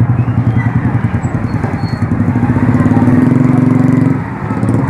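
Motorcycle engine running steadily with a low, fast-pulsing drone that dips briefly near the end.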